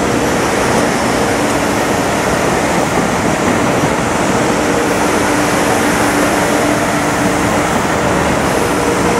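Kawasaki M8 electric multiple-unit train rolling slowly past close by: a steady rumble and rush with a faint low hum.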